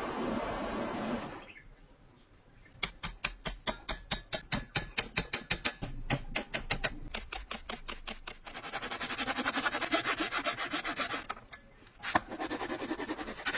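Wooden hammer handle being worked by hand with a rasp or sandpaper: rhythmic rubbing strokes, about three a second, then a faster, denser run of strokes, a short pause with a single click, and the strokes start again.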